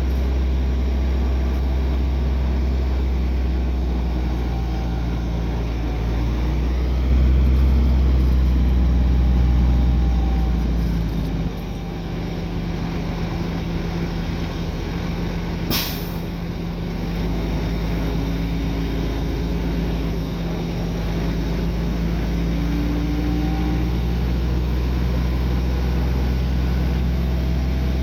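Heavy diesel engine of earthmoving machinery running steadily with a low hum, louder for a few seconds about a quarter of the way in. A single sharp click comes a little past the middle.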